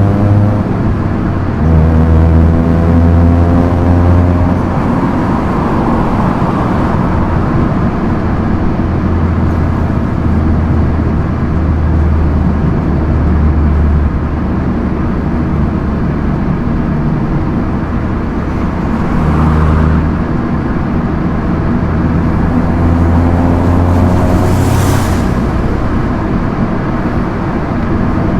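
Proton Inspira 1.8 manual's four-cylinder engine droning at steady cruising speed over tyre and wind noise, its note rising gently about two seconds in and again near the end. Two brief whooshes about two-thirds of the way through.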